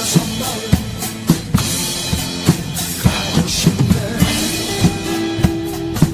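Drum kit played along to a recorded song's instrumental section: a steady kick-and-snare beat with cymbals over the backing track's sustained instruments.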